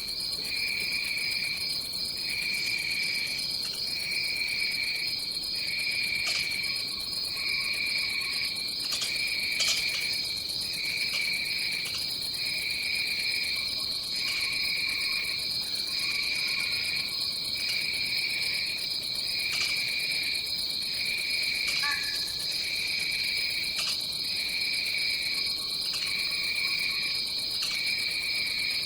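Tropical forest insect chorus: a steady high trill with a lower trill that pulses on and off about every second and a half, and a short falling call about three quarters of the way through.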